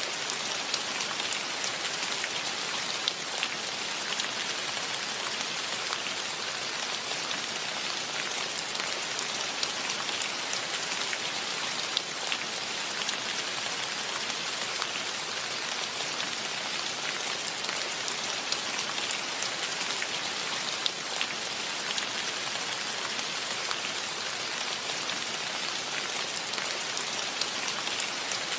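Steady rainfall, a dense even hiss of drops, with a louder single drop ticking out now and then.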